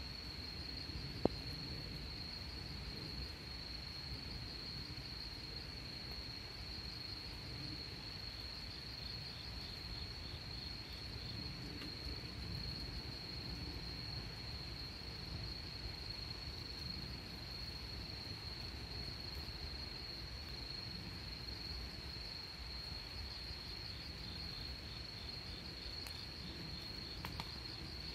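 Crickets chirping in a steady, fast-pulsing high trill, with a second insect's pulsing call joining now and then. A single sharp click about a second in.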